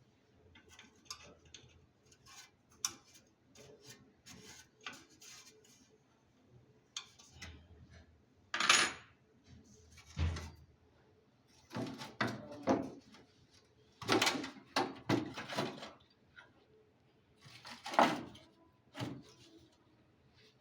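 Irregular clinks, knocks and scrapes of tools and metal parts being handled during air-conditioner repair work, with a few louder clanks.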